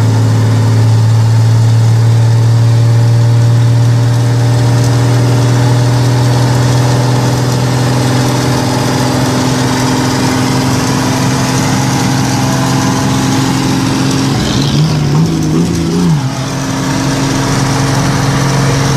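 Chevrolet 400's engine running at a steady speed while driving, with a brief rise and fall in engine pitch about fifteen seconds in, then settling back to a steady tone.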